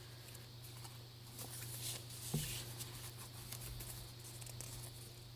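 Faint rustling and light ticks of paper pages and inserts being handled and turned in a handmade junk journal.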